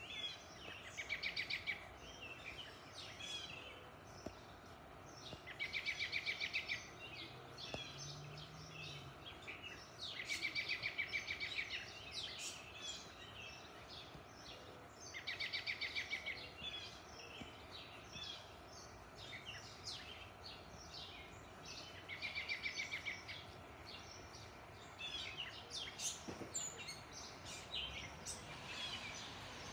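A songbird repeats a short, fast trill of about a second every few seconds, with scattered single chirps from birds between, over faint steady background noise.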